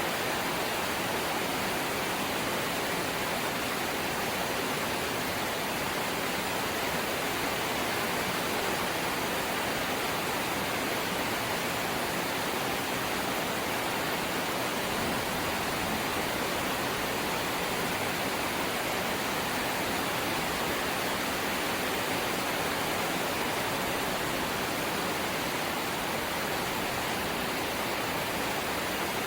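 Rain falling steadily on a corrugated zinc roof: a dense, even hiss with no separate drops, pauses or changes in strength.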